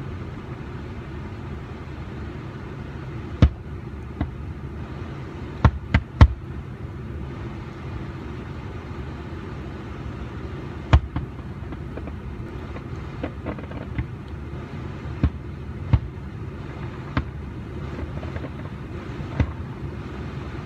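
Fireworks bursting at a distance: about a dozen sharp bangs and pops at irregular intervals, the loudest three in quick succession about six seconds in and another about eleven seconds in, over a steady low rumble.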